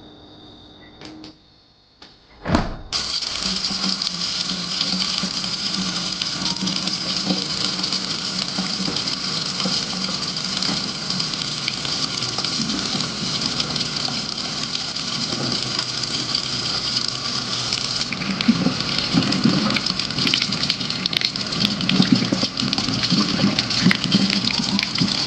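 Steady rush of water that starts suddenly after a sharp click about two and a half seconds in and cuts off abruptly at the end, with some lower swells in its last few seconds.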